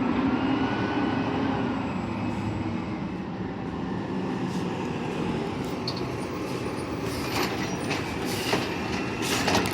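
Garbage truck working close by: its engine running steadily under a wavering whine, with a few sharp knocks in the last few seconds.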